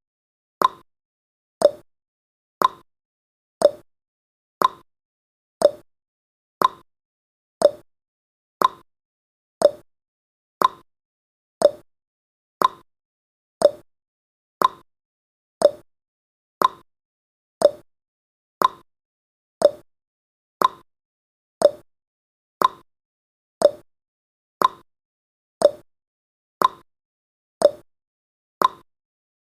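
Ticking sound effect of a countdown timer, one sharp tick each second, alternating between a higher tick and a lower tock.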